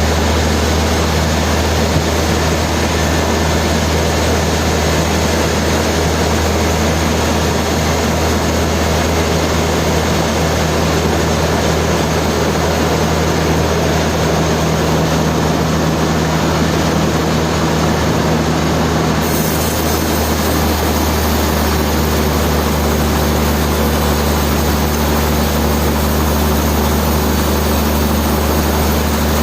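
Heavy sawmill machinery running steadily with a deep, continuous hum.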